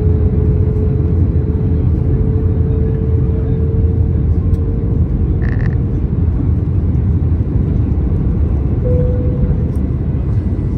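Steady cabin rumble of an Airbus A321neo in flight, the low drone of engines and airflow heard from inside the cabin, with a faint steady hum. A brief chime-like tone sounds about five and a half seconds in.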